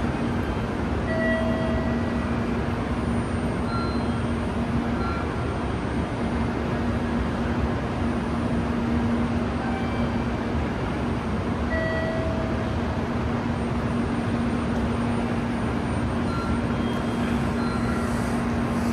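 Steady rushing noise of a Tokaido Shinkansen train at the platform, with a steady low hum underneath.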